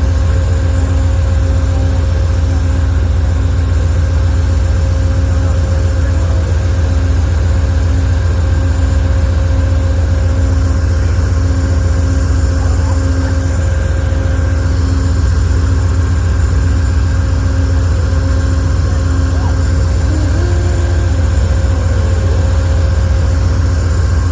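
Amtrak diesel locomotive idling: a steady, loud low rumble with a constant hum above it.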